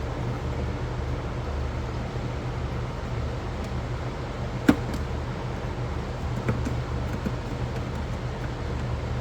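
A steady low mechanical hum, with a few light clicks and one sharper click a little past halfway.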